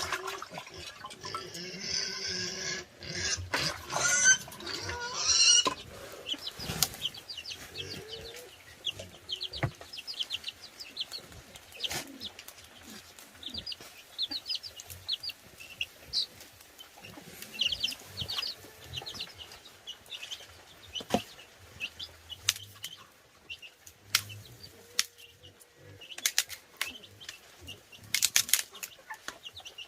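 Chickens clucking and calling: a long pitched call in the first few seconds, then runs of short, quick high chirps, with scattered sharp knocks and clicks, a cluster of them near the end.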